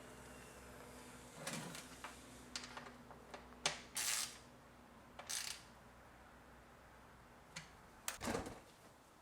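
Scattered clicks, knocks and short scraping rattles of tools and plastic parts being handled while working on the engine's air intake, faint, with the sharpest click about three and a half seconds in and a cluster near the end.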